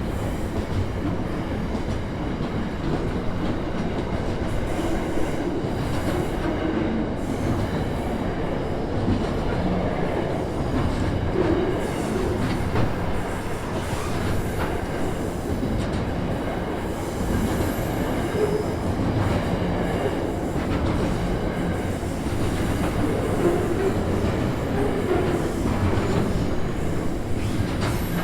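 Long intermodal freight train rolling steadily past, its wagons' steel wheels running over the rails.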